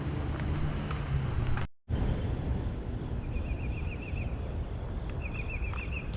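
Outdoor park ambience: a steady low rumble of background noise, with scattered footstep-like clicks before a cut about two seconds in. Afterwards a songbird sings two rapid high trills of quickly repeated notes, one in the middle and one near the end.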